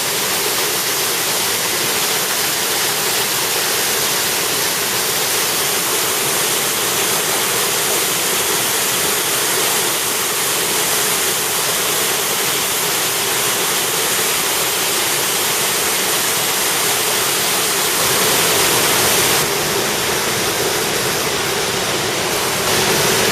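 Steady, loud rush of fast-flowing river water, a little louder about eighteen seconds in and again near the end.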